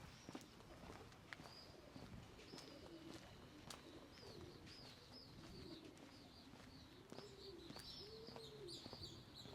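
Pigeons cooing, a run of repeated soft arched coos, with small birds chirping high above them.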